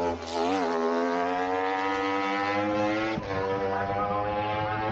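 A racing superbike's engine accelerating hard out of a chicane, its pitch climbing steadily. About three seconds in there is a short break and drop in pitch as it shifts up, and then it climbs again.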